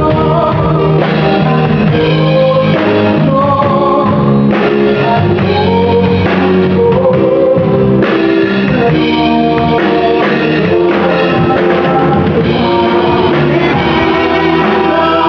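A band playing a song live, with a singer over a drum kit and other instruments, loud and continuous.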